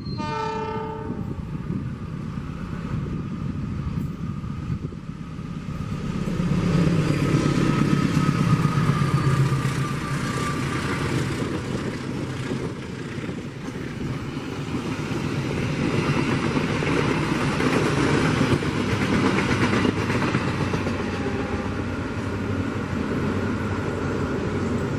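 Train speeding past on the track, a continuous rumble and rush of wheels on rails that is loudest about six to ten seconds in.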